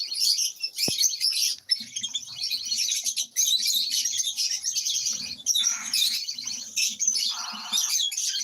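Many lovebirds chattering together: a continuous tangle of high, shrill, overlapping chirps.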